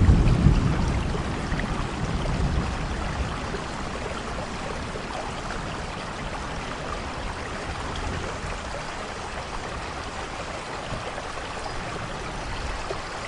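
Heavy rain falling steadily, with the tail of a low thunder rumble fading away over the first couple of seconds.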